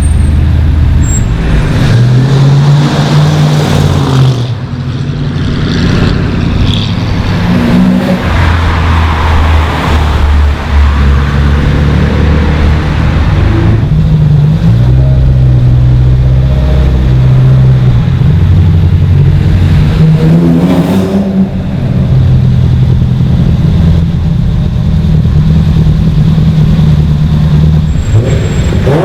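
Car engines running loudly at varying revs, with rising revs about two-thirds of the way in and again near the end.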